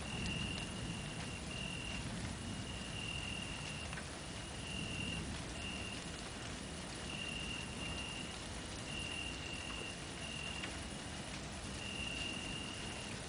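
A cricket trilling in repeated bursts of about half a second to a second each, at one steady high pitch, over a steady background hiss.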